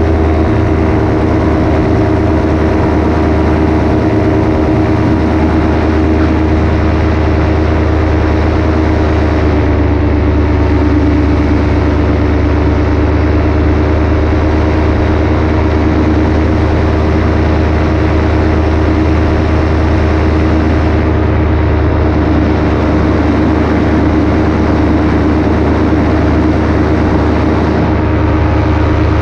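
Paramotor engine and propeller running steadily at cruise power in flight, with airflow rushing past; the engine note eases down slightly about ten seconds in and then holds.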